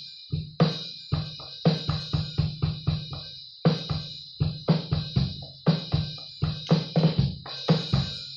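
Drum kit being played: bass drum and snare hits in short clusters with brief pauses between them, and cymbals ringing over the top.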